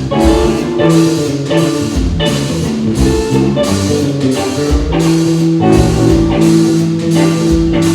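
A band playing an instrumental passage on guitar, bass guitar and drum kit, with a steady beat of about two drum hits a second. From about five seconds in, the guitar and bass hold long notes.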